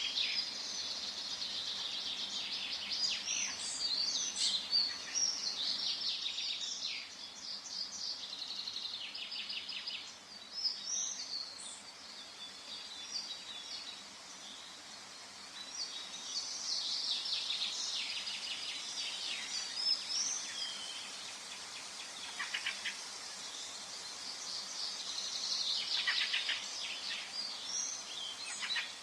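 Forest ambience of several songbirds singing and chirping over one another, with a faint steady background hiss; the birdsong thins out in the middle and builds again toward the end.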